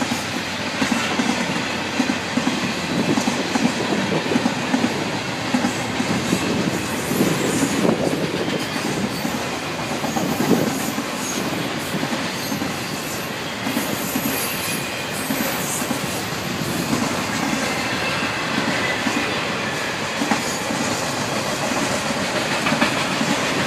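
Autorack cars of a freight train rolling past: a steady rumble of steel wheels on the rails with a continuous irregular clatter over the joints.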